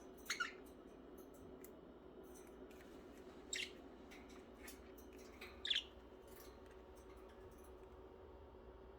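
Pet budgerigars giving three short, high chirps spaced a few seconds apart, with faint scattered clicks between them.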